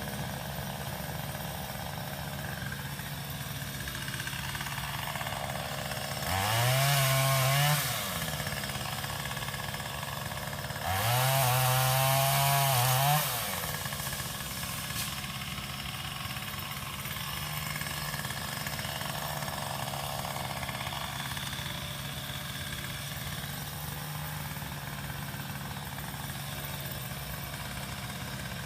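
Small engine of a Craftsman power limb cutter (pole saw) idling, then revved up twice for cutting limbs: about six seconds in for about a second and a half, and again about eleven seconds in for about two seconds, its pitch rising as it speeds up and dropping back to idle after each.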